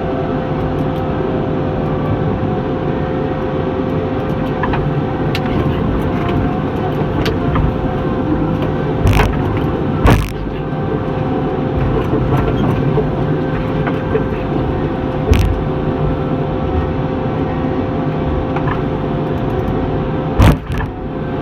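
John Deere 748L-II skidder running steadily while dragging wood, with a steady whine over the engine. Several sharp knocks and clanks come through, the loudest about halfway and again near the end.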